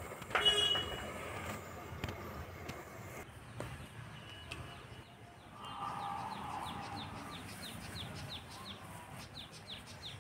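Birds calling: a short loud call just after the start, then from about six seconds in a run of short falling chirps, about four a second.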